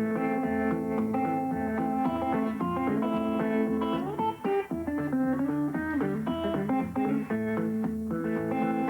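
Guitar played in Muhlenberg County thumbpicking style: plucked melody notes over a bass line, with a few notes bent in pitch around the middle.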